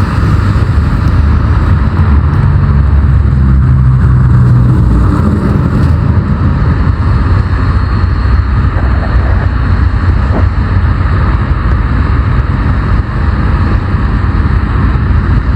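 Steady low rumble of a vehicle driving on the road: engine and tyre noise with no clear changes.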